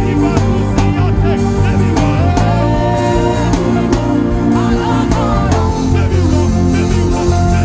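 Worship band music with a steady beat from drums and bass, and gliding melodic lines above.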